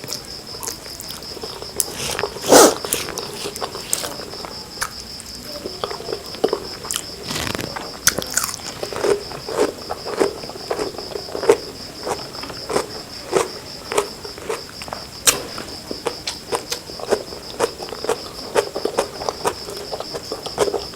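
Close-miked chewing and mouth smacking of a person eating, with short wet clicks about once or twice a second and one louder smack about two and a half seconds in. A steady high-pitched whine runs underneath.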